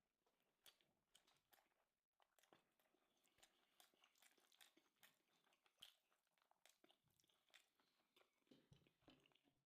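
Faint chewing and crunching of someone eating, a scatter of small irregular clicks and crackles.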